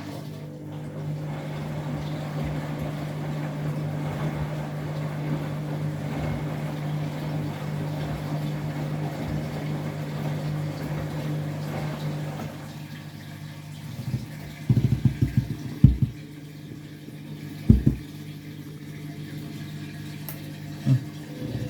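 Washing machine taking in water, a steady hum with rushing water that stops about two-thirds of the way through. Then a few dull thumps from the drum as it turns the wet bath mat.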